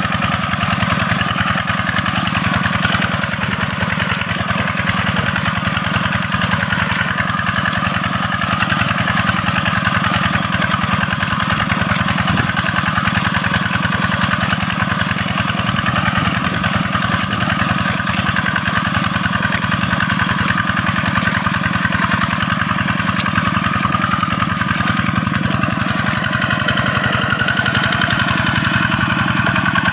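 Diesel engine of a two-wheel hand tractor running steadily at an even speed.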